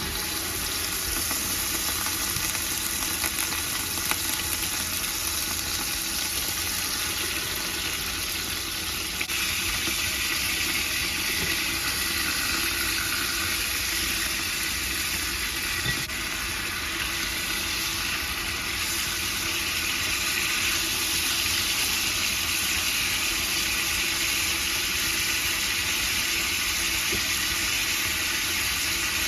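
Marinated chicken thighs searing in hot oil in a pan, with a steady loud sizzle.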